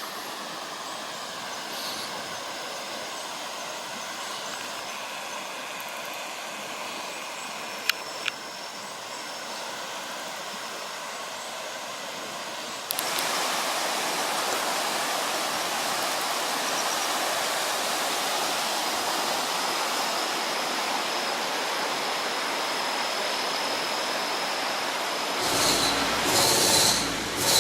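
Steady rushing of a mountain stream, which gets louder about halfway through. Two sharp clicks come about eight seconds in, and a few louder rumbling surges come near the end.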